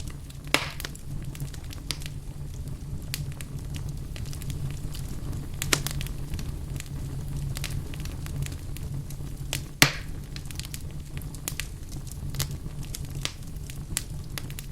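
Wood fire crackling in a fireplace, with a steady low rumble under frequent small crackles. Three louder, sharper pops come near the start, around the middle and about two-thirds of the way through.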